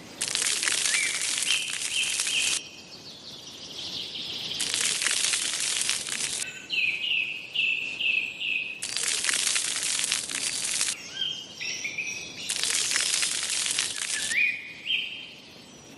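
Loud bursts of hissing noise, each about two seconds long, come four times. Between them are series of short, rising bird chirps repeated several times a second.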